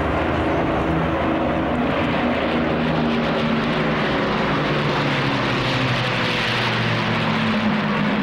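Avro Lancaster bombers' four-engined Merlin piston drone as they fly past: a steady, layered engine hum over a propeller rush that swells toward the end.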